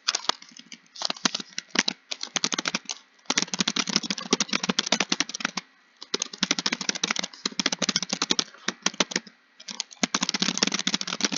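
Computer keyboard typing: rapid key clicks in runs of a second or two, broken by short pauses.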